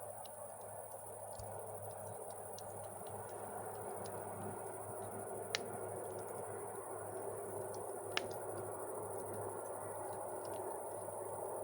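Campfire burning with a steady low rush and scattered small crackles, and two sharper pops about halfway and two-thirds of the way through.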